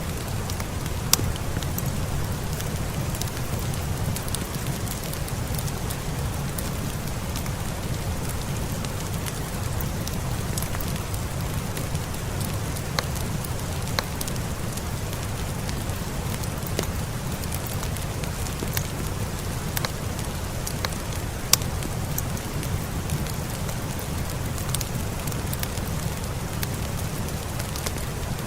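Steady rain falling, with a low rumble underneath, mixed with a fireplace crackling. Scattered sharp clicks and pops run through it, the loudest about a second in and again about 21 seconds in.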